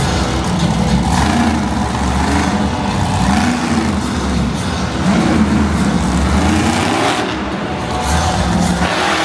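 Monster truck engine revving hard, its pitch surging up and down again and again.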